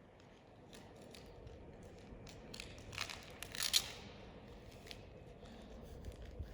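Small handling noises: scattered light clicks and taps, with a short rasping, tearing-like burst about three and a half seconds in.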